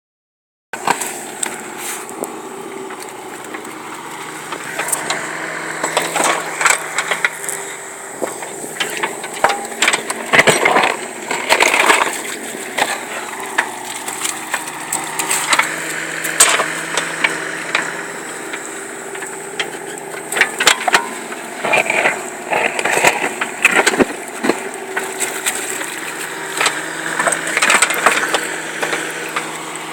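An engine runs steadily under a long series of irregular crunching knocks and scrapes.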